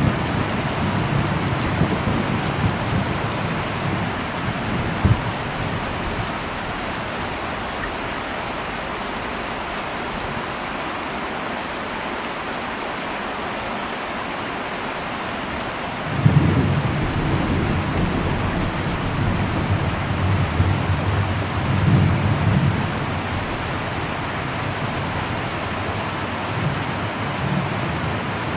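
Heavy rain falling on an old metal roof as a steady hiss, with thunder rumbling: one rumble fades away in the first few seconds, and a new one breaks in suddenly about halfway through and swells again a few seconds later.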